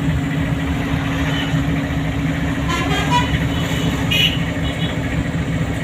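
Car driving through town traffic: steady engine and road hum, with brief horn toots about three and four seconds in.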